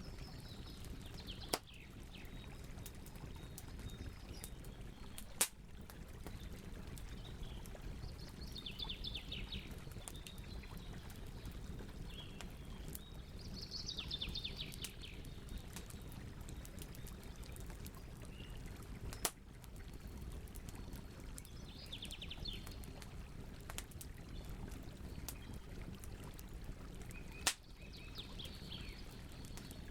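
Campfire crackling, with a steady low rumble of flames, constant small crackles and four loud sharp pops. Birds sing short trilling phrases in the background every few seconds.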